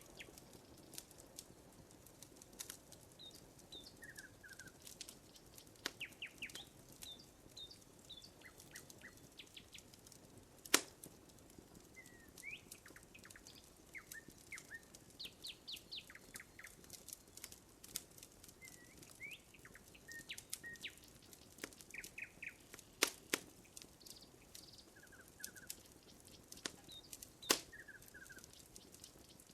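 Wood fire crackling with frequent small pops and three sharp louder ones, about eleven, twenty-three and twenty-seven seconds in, while small birds chirp in short repeated notes.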